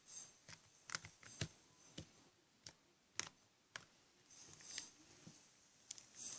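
Faint, scattered clicks and light taps at irregular intervals, with a few short soft hisses.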